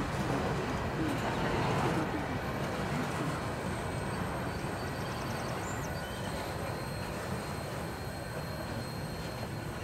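Freight train's last boxcars rolling past, a steady rumble of steel wheels on rail that grows gradually quieter as the end of the train goes by.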